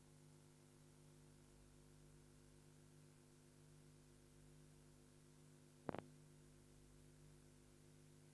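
Near silence with a faint, steady electrical hum. A single short click comes about six seconds in.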